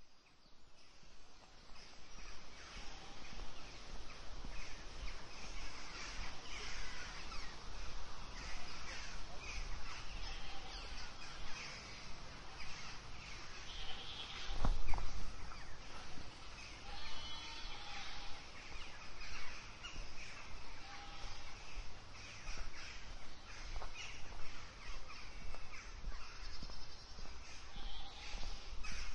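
Pasture ambience with birds calling on and off throughout, and a single low thump about halfway through.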